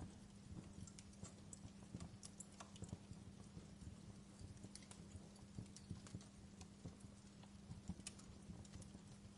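Wood fire crackling, with irregular small pops and snaps over a faint steady low hum.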